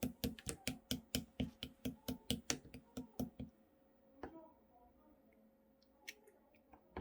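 Clear slime worked by hand, making a quick run of sticky popping clicks, about four a second. They stop about three and a half seconds in, and a few soft, scattered squishes follow.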